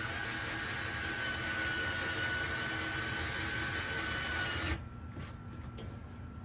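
Power drill driving a screw into a wooden shelf board, running with a steady whine that sinks slightly in pitch as the screw goes in, then cuts off suddenly about three-quarters of the way through.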